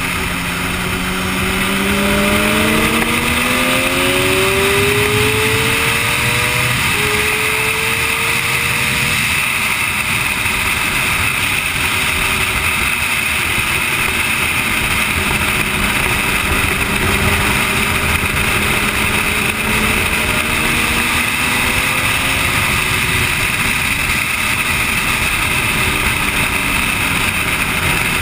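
Sportbike engine at speed on a track, its pitch climbing in several steps over the first seven seconds and rising slowly again later, under a steady rush of wind noise.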